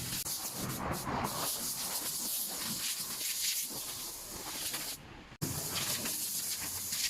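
Steady hissing spray, cut off briefly about five seconds in.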